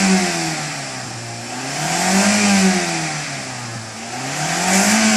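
Toyota Corolla Altis engine free-revving in repeated throttle blips, the pitch rising and falling about every two and a half seconds: three rises, near the start, about two seconds in and near the end.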